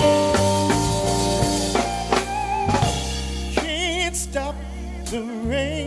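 Live jazz band playing an instrumental passage, the drum kit prominent with snare and rimshot hits over bass and held chords. About halfway through, a melody line with a wide vibrato comes in.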